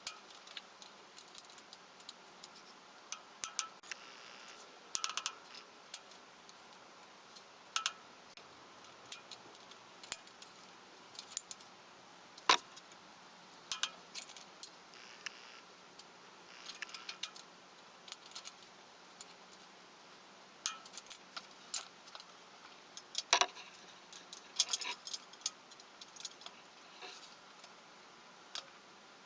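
Scattered, irregular metallic clicks and clinks of hand tools and engine parts being handled, with no engine running.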